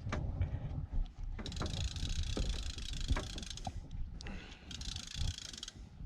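Fishing reel clicking in two runs of fast ticks while a hooked fish is played on the line, over a steady low rumble.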